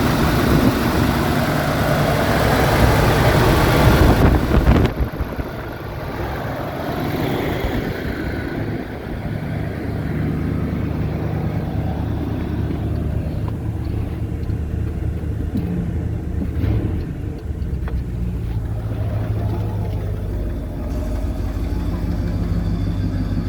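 Mercury Monterey Custom's 6.6-litre V8 running steadily at idle. For the first five seconds or so the sound is louder and fuller, then it drops suddenly to a steady low idle.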